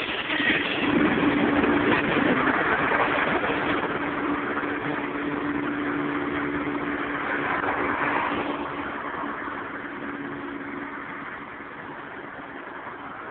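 Norfolk Southern freight train moving away from a grade crossing, its rolling rail noise fading steadily, with a steady engine hum underneath.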